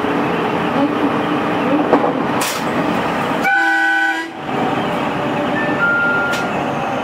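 JR 313 series electric train running, a steady rumble with a low motor tone. About halfway through, a horn-like toot lasts just under a second, and a short high two-note tone sounds near the end.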